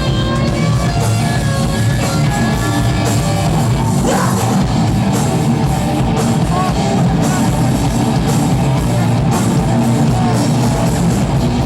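Live rock band playing loud: distorted electric guitars, bass and drum kit.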